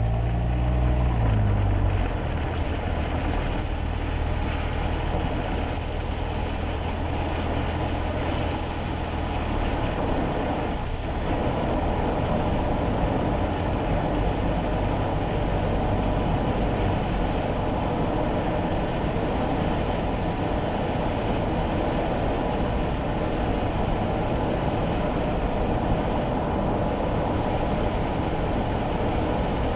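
Kei car heard from inside its cabin: a steady mix of engine and tyre noise on a wet road. In the first two seconds a strong low engine note is heard; it eases off about two seconds in, leaving an even road rumble.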